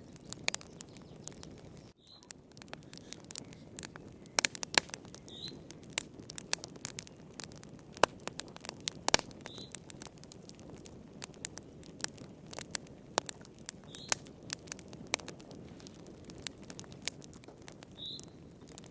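Wood fire in a fireplace crackling, with many sharp pops and snaps over a steady low hiss. A short high chirp sounds about every four seconds, five times.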